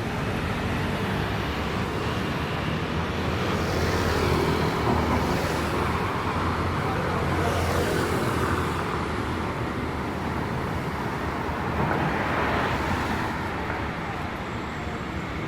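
City street traffic on wet roads: a steady traffic hum with several vehicles passing, each swelling and fading as it goes by.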